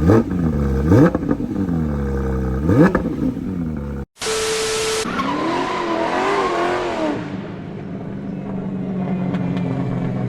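Car engines revving, rising and falling in pitch. After a sudden cut about four seconds in comes a short burst of hiss, then a wavering squeal, then an engine idling steadily.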